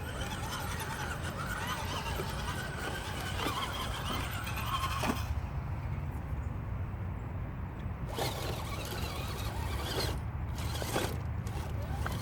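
Axial SCX10 scale RC crawler's electric motor and geared drivetrain whining as it crawls slowly, the whine wavering with the throttle over a steady low rumble. There are a few sharp clicks in the second half.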